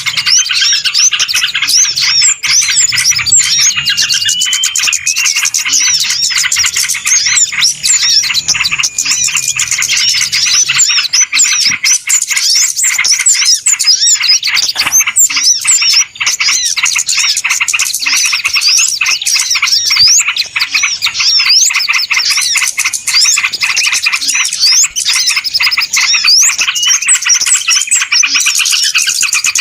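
A loud, dense chorus of many small birds chirping and twittering rapidly without a break: a bird-trapping lure call ('suara pikat') of small birds.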